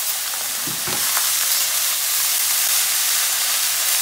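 Shredded cabbage, still damp from washing, sizzling in hot oil in a cast-iron kadai: a steady hiss that grows a little louder about a second in.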